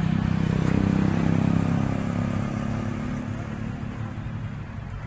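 Motorcycle engine running close by, loudest in the first two seconds and then gradually fading away.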